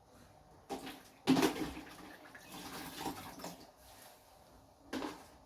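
Water poured and splashing into a cooking pot of cowpea leaves, in a few uneven bursts, the loudest about a second in.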